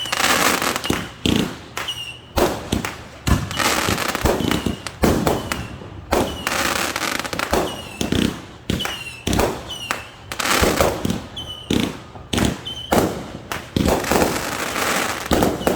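Fireworks going off in quick succession: sharp bangs one or two a second, with crackling between them.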